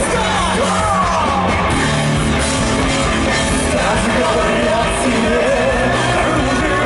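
Rock band playing live with loud singing and shouted vocals over drums and guitars.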